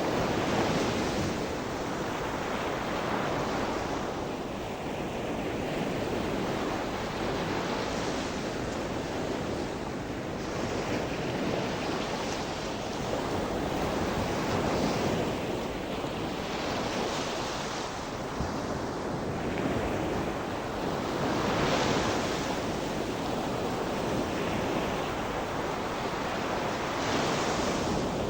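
Gentle sea waves breaking and washing on the shore, the surf swelling and easing every few seconds.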